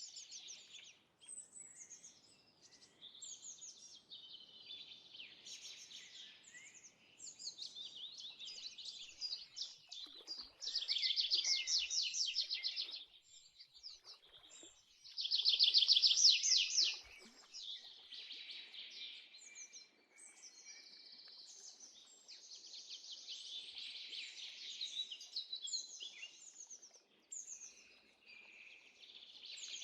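Songbirds singing, several high songs overlapping, with two loud rapid trills about ten and fifteen seconds in, each lasting about two seconds.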